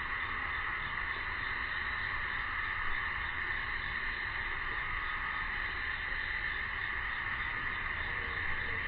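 A steady chorus of cicadas buzzing continuously at an even, high pitch.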